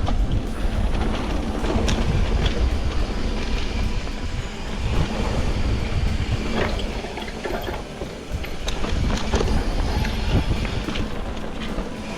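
Wind buffeting the microphone on a moving bicycle, with a steady low rumble of road noise and scattered small clicks and rattles.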